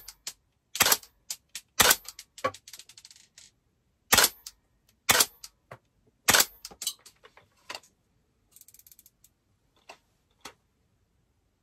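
DAS GDR416 airsoft rifle firing single shots: about six sharp cracks at irregular intervals of roughly a second, mostly in the first seven seconds, with lighter clicks and a short rattle between them.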